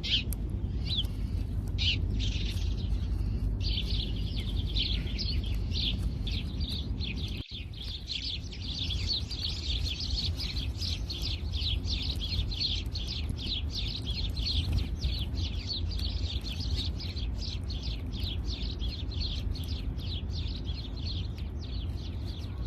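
House sparrows chirping rapidly and continuously, several short high chirps a second, over a steady low rumble. The sound drops out briefly about seven seconds in.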